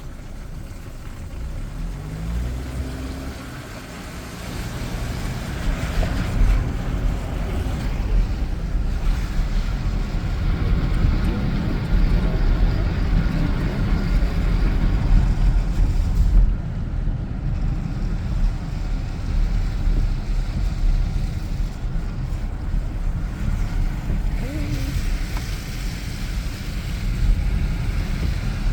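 Road noise inside a moving car: a steady low rumble of tyres and engine with a hiss of air and road, growing louder a few seconds in and holding steady.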